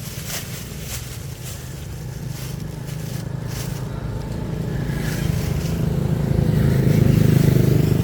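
Road vehicle engine running with a steady low hum, growing louder over the second half.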